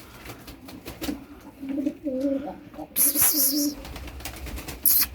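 Domestic pigeons cooing in low, repeated coos. A brief, loud, high-pitched squeak cuts in about three seconds in, with a shorter one near the end.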